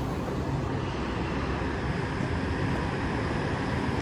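Metro-North M8 electric multiple-unit train pulling away, a steady, even running noise with a low hum.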